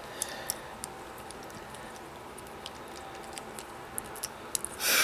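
Small plastic clicks and handling noises as hands work a Bakugan toy figure and its packaging. A short, louder burst of noise comes near the end.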